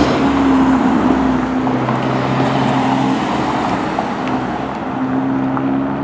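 Road traffic at a city intersection: motor vehicle engines running with a steady hum over tyre and street noise.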